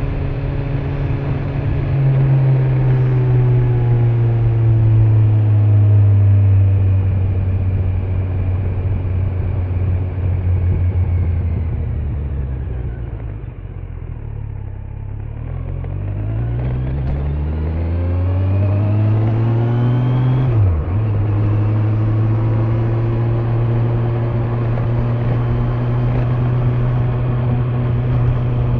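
Kawasaki Z900's inline-four engine on the stock exhaust, heard from the rider's backpack with wind and road noise. The revs fall slowly to a low point about halfway through, then climb steadily. A brief sharp dip in revs comes about two-thirds of the way in, and after it the engine holds a steady cruise.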